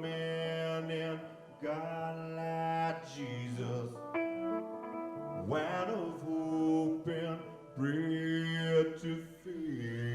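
Live band music with guitar to the fore: sustained, bending notes between the sung lines of the song.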